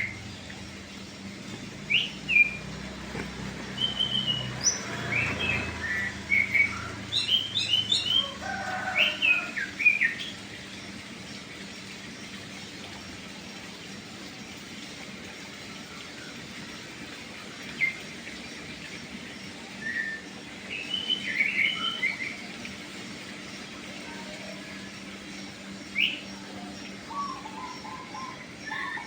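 Birds chirping in short, quick calls, thickest in the first ten seconds and again around twenty seconds in, with quieter stretches between, over a faint steady low hum.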